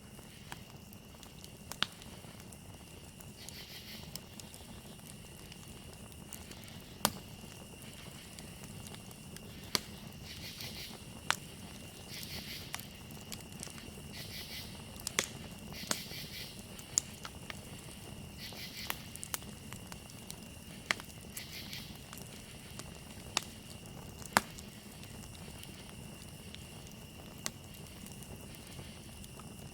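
Campfire crackling, with sharp pops every second or two over a low steady rustle, beneath a steady high cricket trill. Short bursts of a second, higher insect call come and go through the middle.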